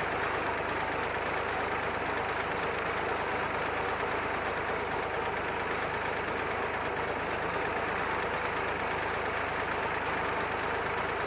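IMT 539 tractor's diesel engine and the SIP 135 Roto corn harvester it drives, running steadily with no change in speed.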